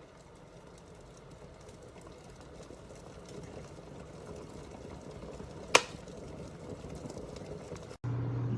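Glass electric kettle heating water: a soft hiss that slowly grows louder as the water nears the boil, with one sharp click a little past halfway. Near the end the sound cuts to a louder steady low hum.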